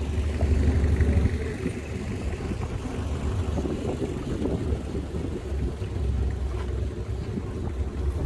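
Longtail boat engine running steadily with a low hum.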